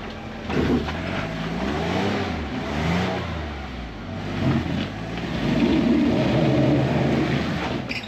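Engine of a manual-transmission Jeep revving up and down repeatedly as it crawls through an off-road trail section.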